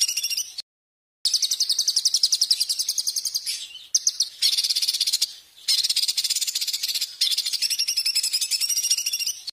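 A songbird singing a high, rapid, buzzy trill of fast even pulses, in long phrases broken by short gaps near the start and in the middle; it cuts off abruptly at the end.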